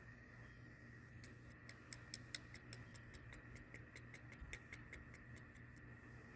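A run of light, evenly spaced clicks, about five a second, starting about a second in and stopping near the end, over a faint steady high whine and low hum.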